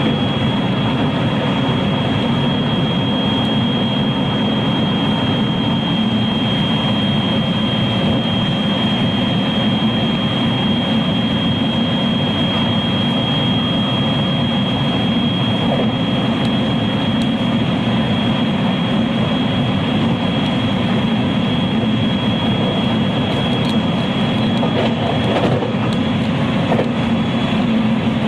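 Running noise inside a JR West 223 series electric motor car (KuMoHa 223-3016) travelling at steady speed: a steady rumble of wheels on rail with a constant high-pitched whine.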